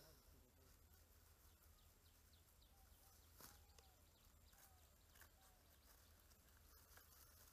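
Near silence: faint outdoor background with a few faint, short bird calls.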